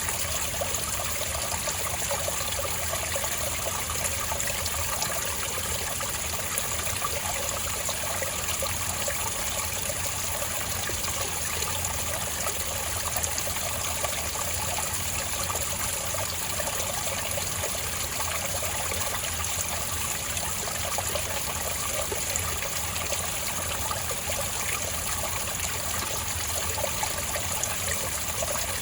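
Spring water trickling and flowing steadily over rocks, a continuous even burble.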